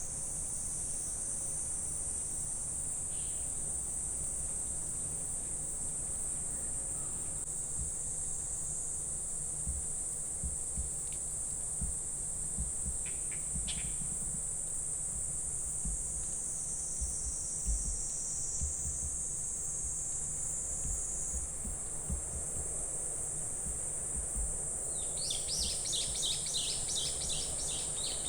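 Steady high-pitched insect chorus in summer woodland, with a few short bird chirps and, near the end, a rapid run of pulsed chirps.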